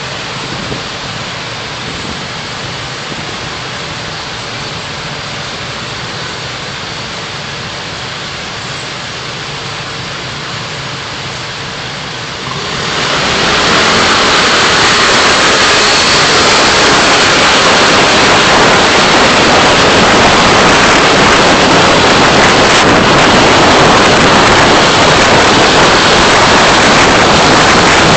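Steady rushing noise of a car driving, as picked up by its dashcam. About halfway through it suddenly grows much louder and brighter and stays that way.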